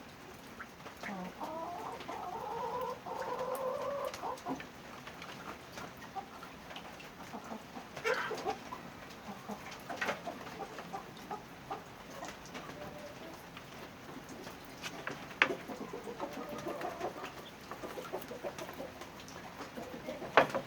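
Chickens clucking and calling, with a longer call in the first few seconds and more clucking later. Sharp knocks or taps come now and then, the loudest near the end.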